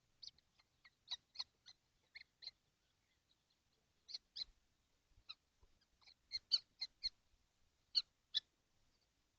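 Kestrels in a nest box giving a string of short, high calls at irregular intervals, loudest near the end.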